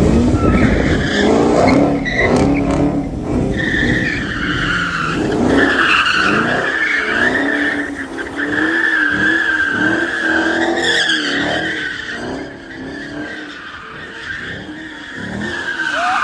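Chevrolet Camaro SS V8 revving up and down as the car spins donuts, with a long steady tire squeal from about four seconds in until about eleven seconds, returning near the end. Heard from inside the car's cabin.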